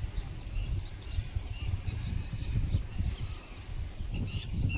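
Outdoor ambience: birds chirping faintly over a low, uneven rumble, with a louder, harsher bird call near the end.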